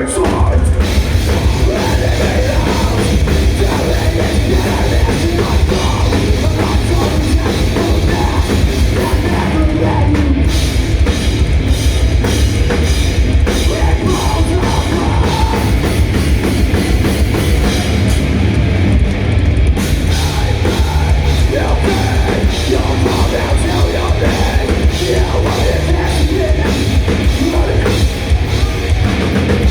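Live heavy metal band playing loud: distorted guitars and bass over fast, dense drumming on a drum kit.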